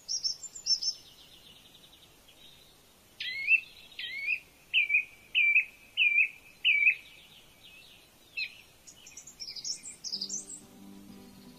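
Songbird singing: high twittering at first, then a string of about six loud, repeated rising notes, about one and a half a second, followed by more high twittering. Background music with low sustained notes comes in near the end.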